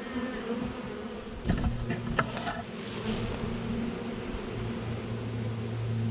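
A swarm of honeybees buzzing in flight after being shaken off a branch, a steady droning hum. A few sharp knocks come between about one and a half and two and a half seconds in.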